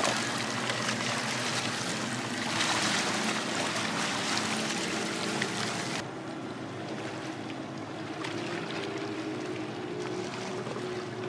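Chopped shallots sizzling in hot oil in a frying pan, a steady hiss. About six seconds in it cuts off abruptly to a softer, duller background hiss.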